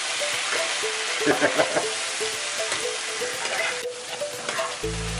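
Spinach and chopped onion sizzling as they sauté in a nonstick saucepan, stirred with a metal spoon: a steady frying hiss with the spoon's stirring moving through it.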